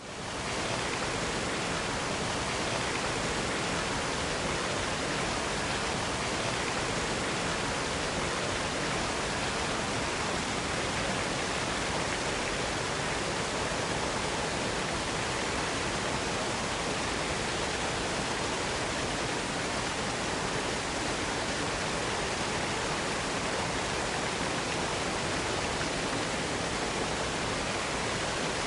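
Waterfall rushing as a steady, even wash of water noise, fading in at the start.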